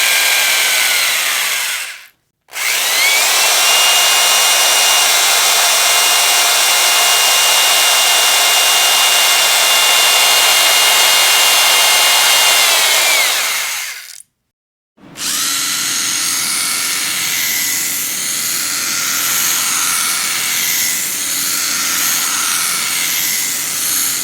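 Electric power drill run in three bursts with short pauses between them. The first winds down and stops about two seconds in. The second spins up, holds a steady high whine for about eleven seconds and winds down. The third runs rougher and lower and cuts off at the end.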